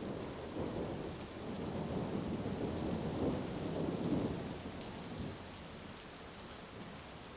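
A roll of thunder, a deep rumble that swells for a few seconds and then fades about halfway through, over the steady hiss of heavy rain.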